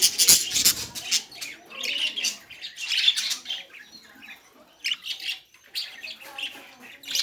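A large bird squawking in a series of harsh, raspy calls, loudest right at the start and again about three seconds in.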